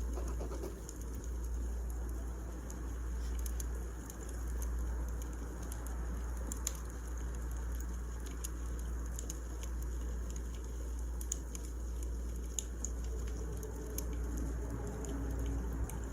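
Wood fire crackling: scattered sharp pops and ticks over a steady low rumble.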